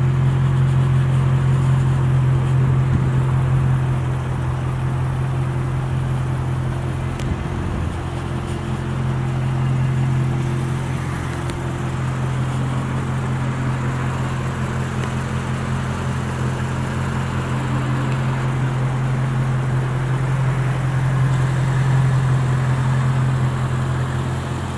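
BMW E90 M3's V8 engine droning steadily at a constant low pitch while the car drives, with tyre and road noise underneath.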